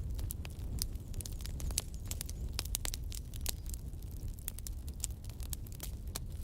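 Wood fire in a fireplace crackling, with irregular sharp pops several times a second over a low, steady rumble of the flames.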